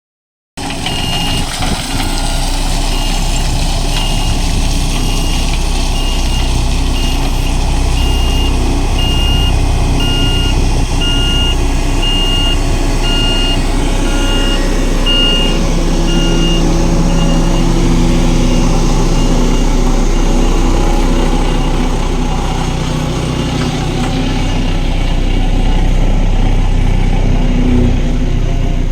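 Diesel engine of heavy road-construction machinery running steadily, with a back-up alarm beeping at a steady pace, a little faster than once a second, for the first half; the beeping stops about halfway through.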